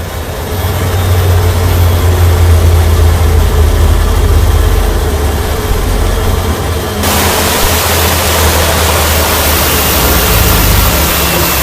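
Loud, steady jet-engine-like machine noise with a deep hum, passed off as an air conditioner going haywire. About seven seconds in, a loud rushing hiss starts suddenly and keeps on.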